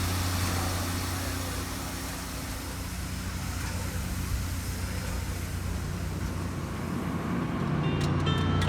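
A steady low mechanical hum with an even hiss over it, like an engine running; music begins near the end.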